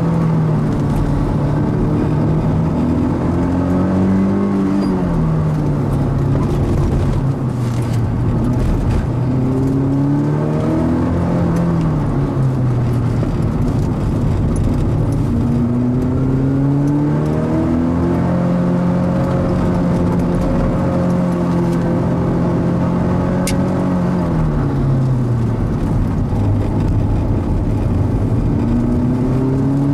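Mazda Roadster NC's stock four-cylinder engine driven hard on a circuit lap. The revs climb, drop back at shifts and lifts, and climb again, with one longer stretch held at steady revs about midway through.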